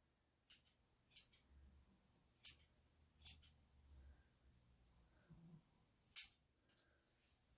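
Grooming scissors snipping a Shih-Tzu's hair around the face: about six short, crisp snips at irregular intervals, some in quick pairs.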